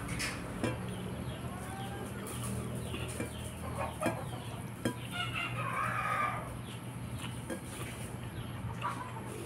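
Bird calls in the background, a cluster of rising-and-falling calls about five to six seconds in, over a steady low hum, with a few soft clicks of eating.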